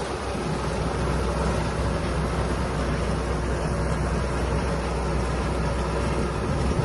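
A large farm-machine engine running steadily, a low even hum with no change in speed.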